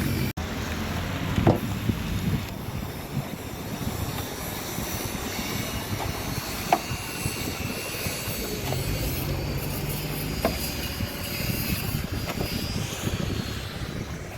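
Steady mechanical running noise with a low hum, broken by a few sharp knocks, about three over the stretch.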